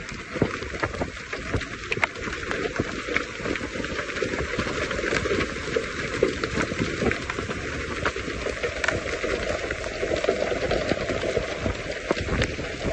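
Steady rain and running-water noise, with many small crackling ticks throughout.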